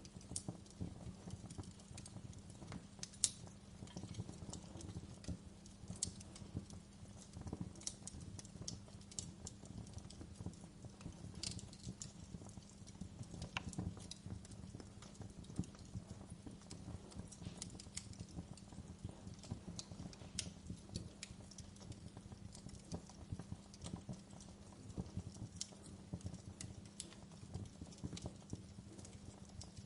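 Wood fire crackling in a fireplace: a steady low burning rumble with irregular small pops and occasional sharper snaps, the loudest about three seconds in.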